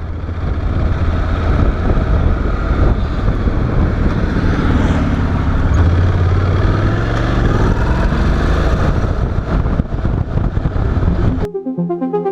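Honda NC750X's parallel-twin engine running while riding, with road and wind noise, its pitch rising and falling a few times with the throttle. It cuts off suddenly near the end and music begins.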